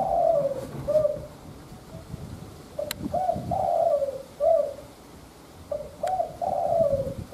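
Spotted dove cooing: three phrases of low, rounded coos, with a couple of faint clicks in between.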